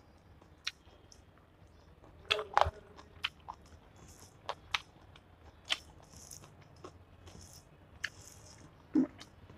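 Close-miked mouth sounds of a person eating chicken curry and rice: chewing with wet clicks and smacks and a few crunchy bites, loudest a little over two seconds in.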